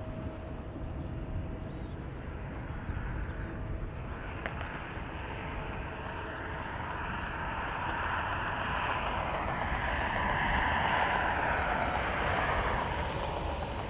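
Jet airliner engines growing louder, peaking about eleven seconds in and then fading as the aircraft passes, the pitch falling near the end. Strong wind rumbles on the microphone underneath.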